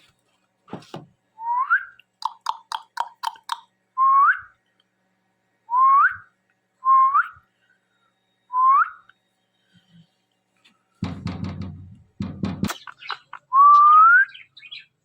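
Ringneck parrot whistling: a series of about seven short rising whistles, with a quick run of clicks about two seconds in and a harsh, noisy burst a little past the middle.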